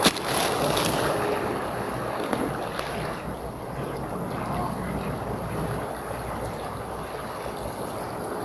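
Steady rushing wind buffeting the microphone, with no voice.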